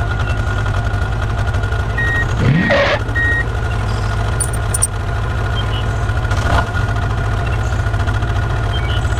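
Heavy truck engine running low and steady, with three short reversing beeps about two to three and a half seconds in. Two brief swooshing sounds come over it.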